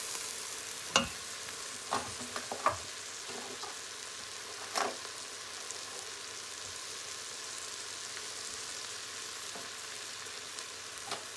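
Rice and onions sizzling in hot coconut oil in a stainless steel pressure cooker pot as they are stirred, with a wooden spoon knocking against the pot a few times in the first five seconds. The sizzle then runs on steadily.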